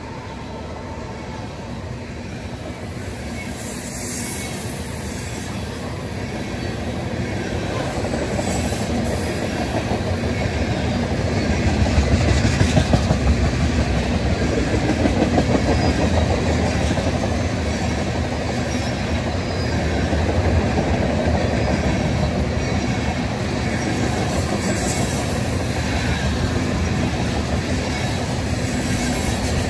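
Freight train tank cars rolling past, a steady rumble of steel wheels on rail with rhythmic clicking over the rail joints, growing louder over the first dozen seconds.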